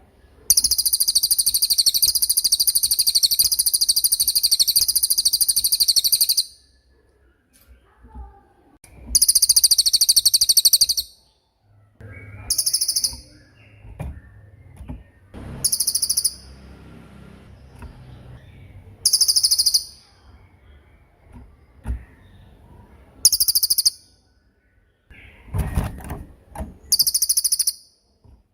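A small songbird singing very high, rapid trills: one long trill of about six seconds, a shorter one soon after, then brief trill bursts every three or four seconds.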